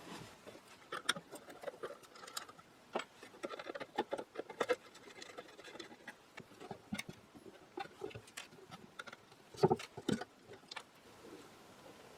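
Irregular small clicks and light metallic clinks of brass hardware being unscrewed and handled, a few louder knocks among them.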